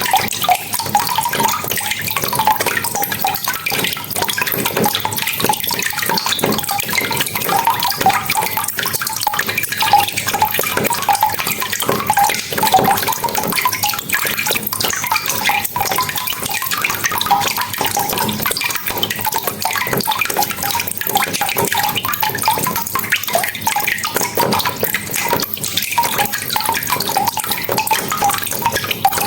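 Steady rain falling, with the patter and drip of individual drops heard through it.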